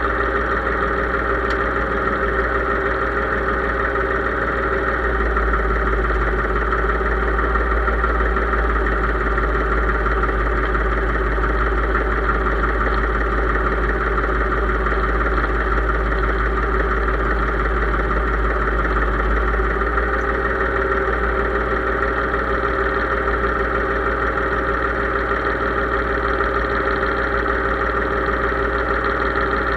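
Case IH 3220 tractor engine running steadily at a constant speed, its tone shifting slightly between about five and twenty seconds in.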